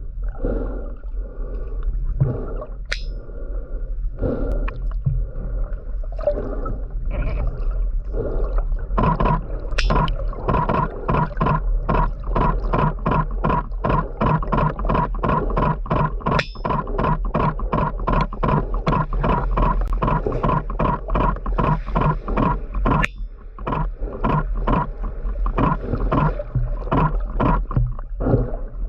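Huge male sperm whale clicking underwater: loud, metallic clicks, spaced unevenly at first, then settling into a run of about two a second, with a short pause near the end. A steady low hum lies under the clicks.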